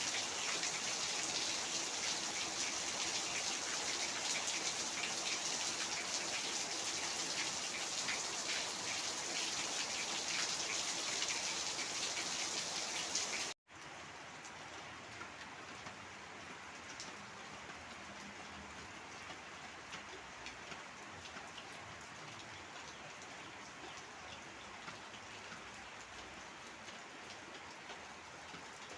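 Heavy rain falling steadily, a dense hiss of drops. About halfway through it cuts out for an instant, then carries on softer and duller.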